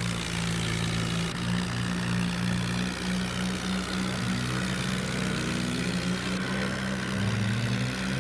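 Mahindra tractor's diesel engine running steadily at a constant pitch.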